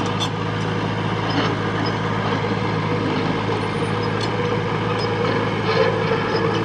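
Diesel engine of heavy earthmoving machinery running steadily at an even speed, with a few faint clicks over it.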